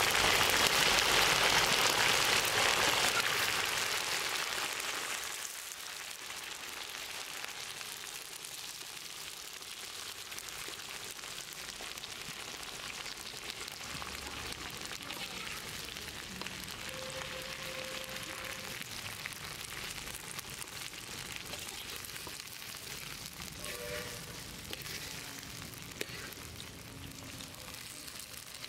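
Shallots sizzling in hot oil in a large kadai as they are turned with a wire skimmer. The hiss is loudest for the first few seconds, then settles to a steadier, quieter frying sizzle.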